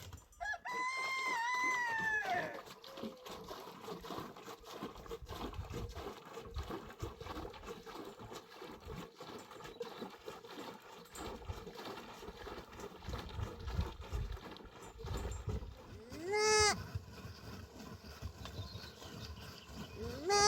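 A rooster crowing once, a long wavering call lasting about two seconds, near the start. Later come two short, sharp calls from the chickens, over low background rumble.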